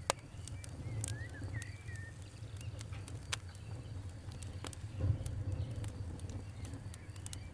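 Wood fire crackling, with irregular sharp pops (the loudest just at the start) over a low steady rumble of flames. A bird chirps a few times about a second in.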